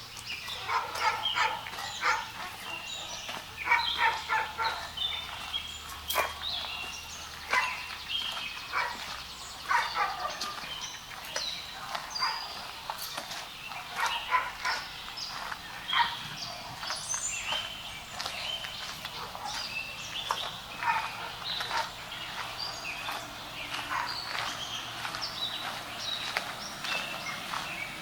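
Dogs barking repeatedly in short bursts at a distance, mixed with birds chirping.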